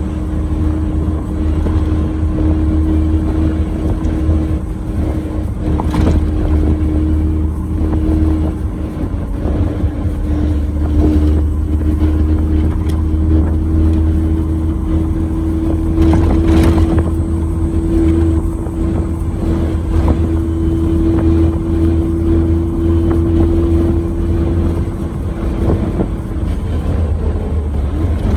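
Suzuki Jimny JA11 driving on pavement on Yokohama Geolandar X-MT mud-terrain tyres: a steady low road rumble with a droning hum that rises slightly and holds, then eases off near the end. Two brief knocks come through during the drive.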